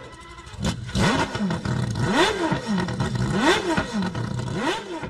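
Mazda RX-8's 13B-MSP rotary engine being revved in four quick blips about a second apart, each pitch rising and falling straight back.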